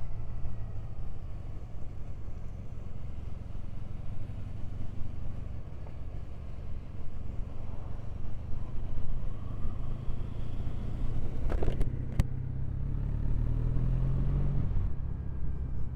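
Triumph Bonneville parallel-twin motorcycle riding along, its engine mixed with wind and road rumble. The engine note rises for a few seconds near the end as it accelerates, with a couple of sharp clicks shortly before.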